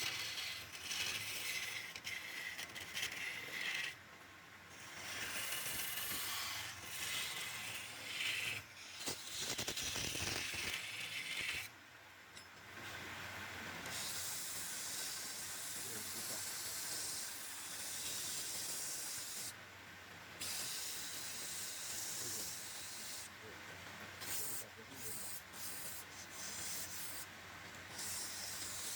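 Woodturning lathe with a tool working the spinning wood: a hissing scrape that breaks off and resumes several times.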